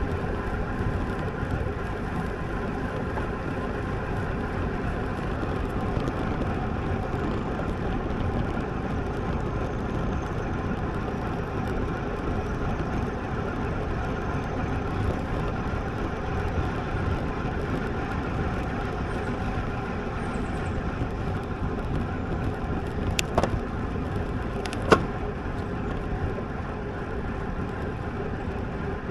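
Steady rush of wind and road noise from a road bicycle ride, with two sharp clicks about a second and a half apart near the end.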